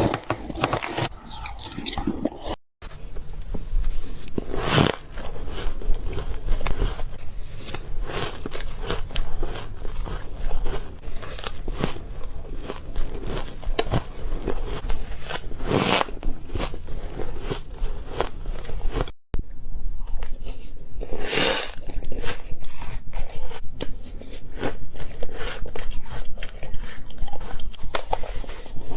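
Ice being bitten and chewed close to the microphone: dense, irregular crunching and crackling, with two brief breaks of silence, about three seconds in and again near the middle.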